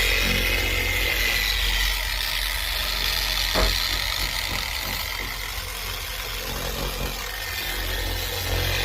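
Harbor Freight dual action polisher running steadily as it buffs a hazy headlight lens, with a single click about three and a half seconds in.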